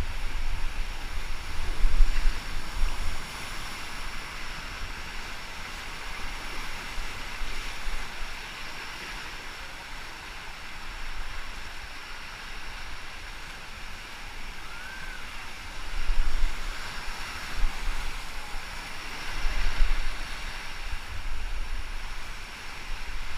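River water rushing steadily around a paddled raft, with wind buffeting the microphone in bouts near the start and again in the second half.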